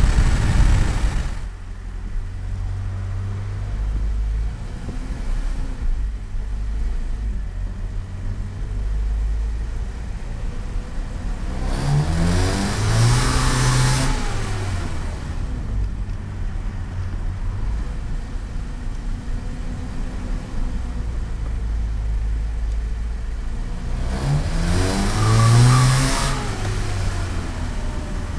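BMW E30's M42 1.8-litre four-cylinder engine under hard throttle, easing off about a second and a half in and then running low. It is revved hard twice, about twelve seconds apart, the pitch rising then falling each time, as the car is pushed into drift attempts.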